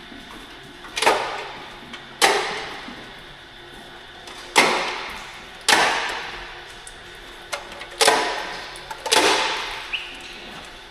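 Six sharp bangs, each dying away over about a second, coming in three pairs with each pair about a second apart.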